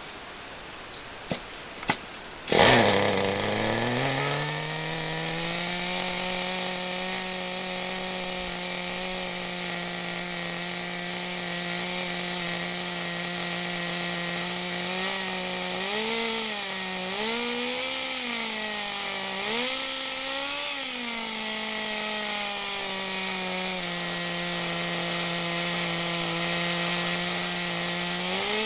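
Small nitro engine of a Kyosho 1/10-scale RC car catching first time about two and a half seconds in, after two short clicks, then idling steadily with a high buzz. Several short revs come a little past the middle and again near the end.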